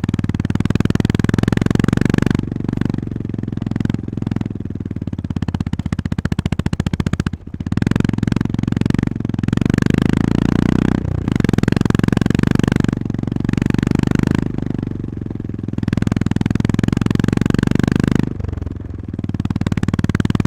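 Honda GB350S single-cylinder engine running under way, a rapid low pulsing that swells and eases as the throttle opens and closes, with several short drops in level.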